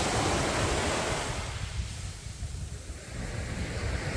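Sea waves breaking on the beach: one wave crashes and washes up at the start, then recedes, and the next builds near the end. Wind rumbles on the microphone throughout.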